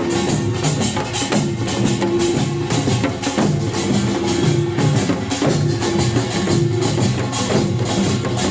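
Korean pungmul percussion band playing: kkwaenggwari small gongs, janggu hourglass drums, buk barrel drums and jing gong struck together in a dense, fast rhythm, with a held ringing tone coming and going.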